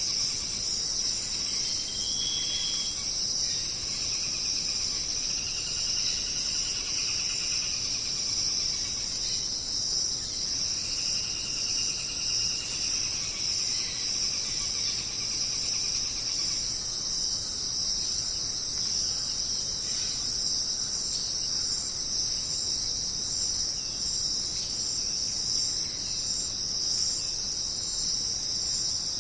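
Jungle insect chorus: a dense, steady, high-pitched buzzing trill. Fainter, lower warbling calls come and go during roughly the first half.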